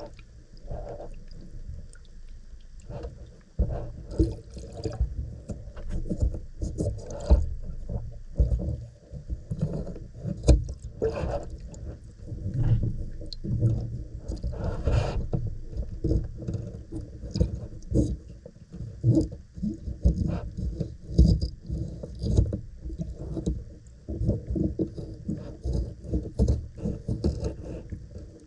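Irregular handling noises: a dense run of soft knocks and taps with some scraping, coming every fraction of a second.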